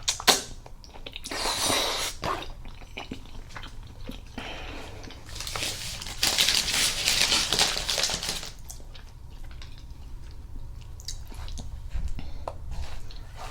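Close-up eating sounds of spaghetti in meat sauce: wet chewing and mouth clicks, with a short noisy stretch about a second in and a louder, longer one of about three seconds in the middle.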